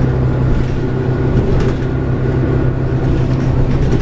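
Cummins ISL diesel engine of a 2006 New Flyer D40LF transit bus running steadily, heard from inside the passenger cabin, with a strong low hum.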